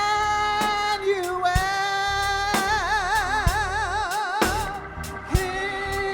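Live gospel praise music: held melody notes, one with a wide vibrato about halfway through, over drum and cymbal hits.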